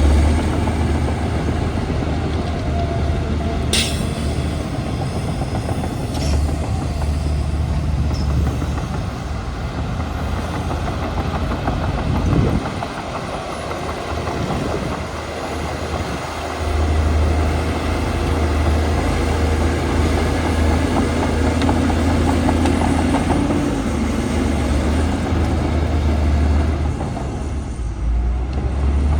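Heavy diesel earthmoving machinery running steadily with a deep engine hum. The engine drops and changes for a few seconds about twelve seconds in, then runs up again. A single sharp click sounds near four seconds in.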